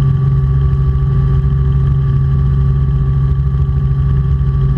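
Robinson R44 Clipper II helicopter in flight, heard from inside the cabin: a loud, steady drone of engine and rotors with a constant hum.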